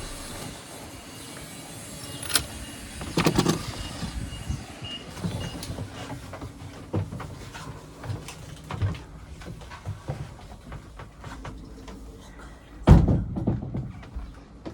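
Scattered knocks, bumps and clicks of people moving about inside a sailing yacht's cabin, with a heavy thump about thirteen seconds in.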